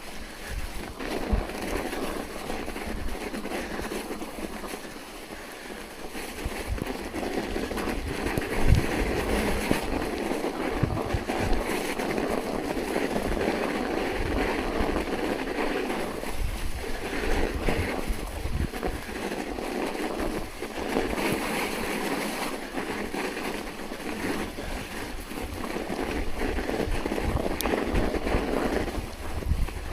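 Wind buffeting the microphone in irregular low gusts over a steady rushing noise of riding through snow.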